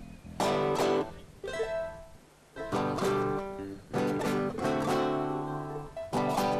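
Acoustic guitar strumming chords in short groups, with a brief pause between them.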